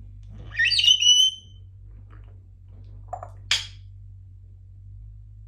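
Congo African grey parrot giving a loud whistle that sweeps up and then holds level, about a second long, followed a couple of seconds later by a short low note and a sharp click-like squawk.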